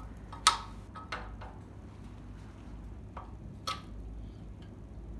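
A few sharp clicks and taps of standing-desk parts and tools being handled, the loudest about half a second in.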